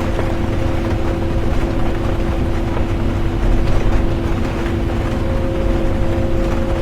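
Interior of a bus driving: steady low engine and road rumble with a constant two-note hum, and a scatter of light rain ticks.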